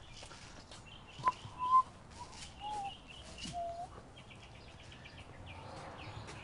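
Birds calling and chirping: a few short whistled notes, the loudest about a second and a half in, over faint high chirps, with a quick trill about four seconds in.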